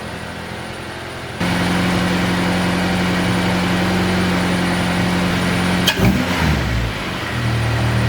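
Honda Civic EP3's four-cylinder engine idling steadily. Near the end the revs swing up and down briefly before it settles back to a lower idle. The idle is being set by hand at the throttle body, the car having no idle air control valve.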